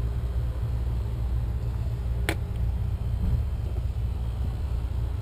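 Steady low background rumble with a single sharp click a little over two seconds in.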